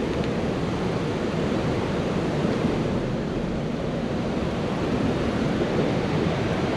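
Steady rushing of water pouring through the low-head dam.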